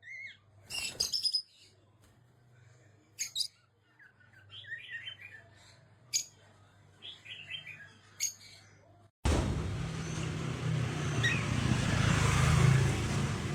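A parrot giving a string of short, separate chirps and squawks. About nine seconds in, this cuts suddenly to a steady noisy background with a low hum and a faint chirp.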